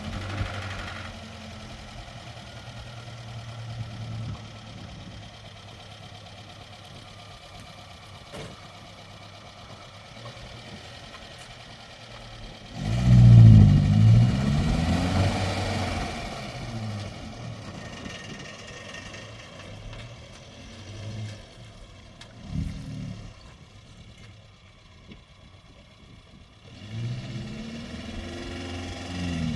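A vehicle engine idling, revved hard about 13 seconds in with the pitch rising and falling, with shorter revs later and another near the end.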